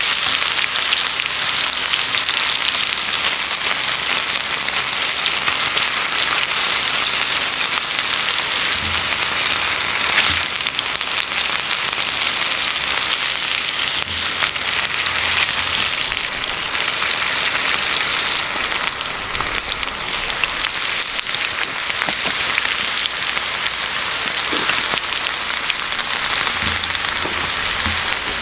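Food sizzling steadily in a pan over a campfire, with a few short crackles.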